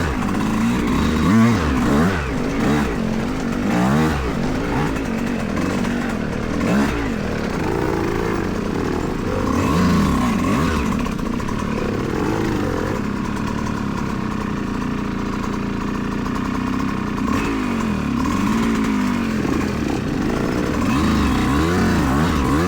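Yamaha YZ125X two-stroke dirt bike engine being ridden, revving up and down over and over, its pitch rising and falling with the throttle. It runs more steadily for a few seconds in the middle.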